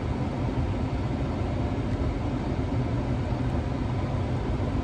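Steady low rumble of a car's cabin with the engine running.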